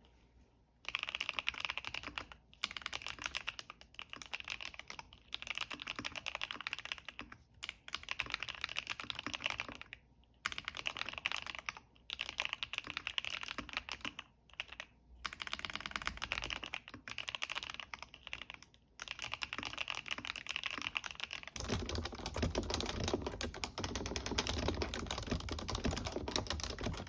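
Fast typing on computer keyboards, a dense clatter of keystrokes in bursts of a second or two with short pauses between. About 21 seconds in the clatter turns deeper and fuller and runs on without pauses, as a different keyboard is typed on.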